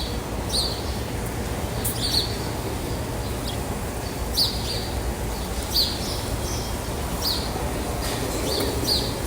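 A bird giving short, sharp, high chirps that drop in pitch, repeated irregularly about once a second, over a steady low background rumble.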